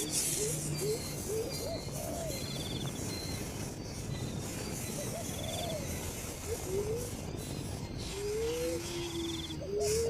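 Bird calls: short whistled notes that rise and fall, scattered singly and in pairs, with an insect's short buzzy trill repeating about every two seconds.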